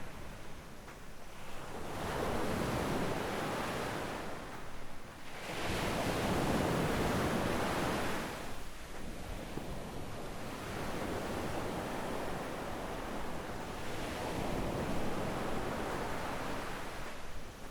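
Sea waves breaking and washing up on a sandy beach. Two surges come about 2 and 6 seconds in, the second the loudest, followed by a steadier wash.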